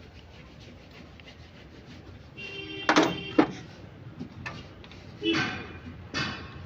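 Metal parts knocked together: a few light ticks, then sharp metallic clanks that ring briefly, two close together about three seconds in and two more near the end.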